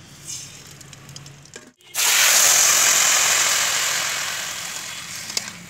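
Hot oil in a steel kadhai sizzling loudly as chopped tomatoes go in, starting suddenly about two seconds in and fading slowly. The first two seconds are much quieter.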